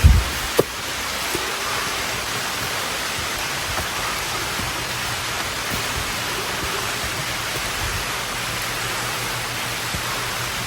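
Steady rain falling, an even hiss throughout. A low bump right at the start and a sharp click just after it, typical of the phone being handled.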